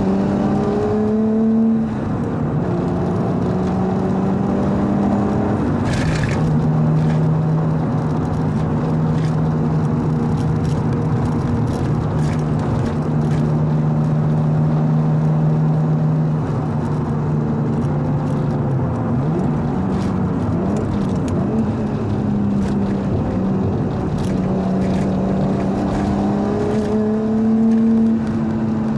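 Nissan R33 Skyline's RB25DET turbocharged straight-six with a straight-pipe exhaust, driven at cruise: the engine note rises with revs, then drops about two seconds in, wavers in pitch around the middle, and climbs again before dropping near the end. Occasional short sharp crackles sound over the engine.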